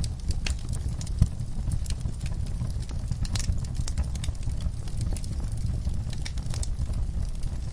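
Wood fire in a fireplace crackling: irregular sharp pops and snaps over a steady low rumble, with one louder pop a little over a second in.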